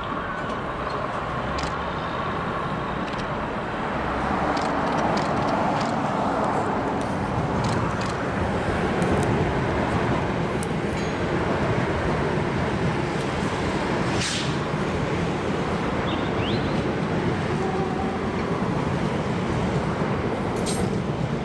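Electric suburban train rolling across a steel rail-over-road bridge: a steady rumble of wheels and traction equipment that swells about four seconds in, with scattered sharp clicks and a brief thin squeal. Road traffic runs underneath.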